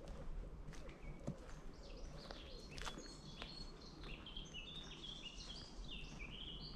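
A songbird singing a run of short, high notes that jump between pitches, starting about two seconds in, over scattered footstep clicks on a woodland path and steady low background noise.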